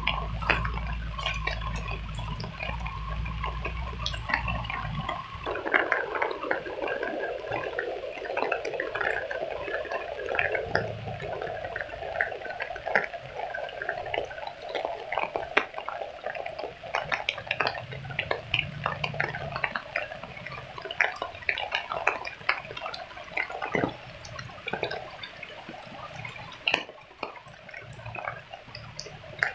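Rain falling in a garden: a steady wash of rain with many small drops tapping on leaves and leaf litter. A low rumble runs under it for the first five seconds or so.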